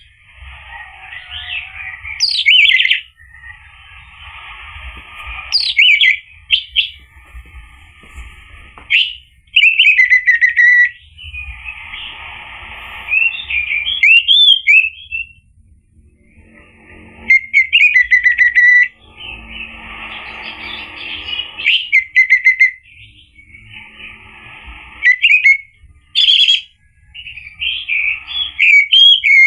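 Orange-headed thrush singing: loud, varied phrases of sharp whistles and rapid warbling, one after another with short pauses and one longer break about halfway through.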